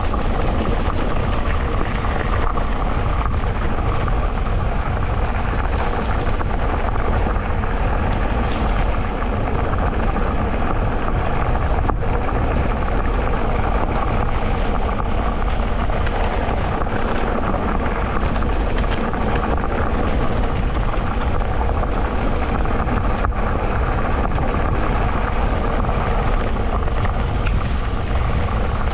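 Electric mountain bike ridden along a dirt trail: a continuous rolling noise of tyres and bike, with a strong low rumble and a few brief knocks.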